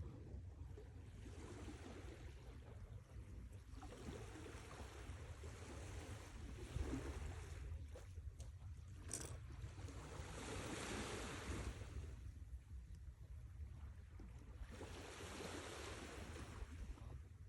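Sea waves washing onto a shore: three swells of surf hiss that rise and fall a few seconds apart, over a steady low rumble, with a brief sharp click about nine seconds in.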